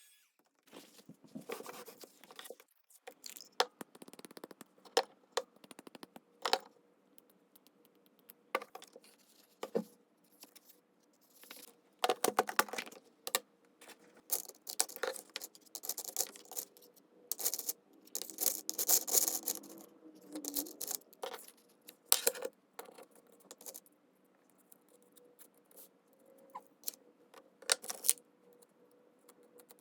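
Paper and small craft pieces being handled on a desk: irregular rustling, scraping, taps and clicks, busiest about halfway through.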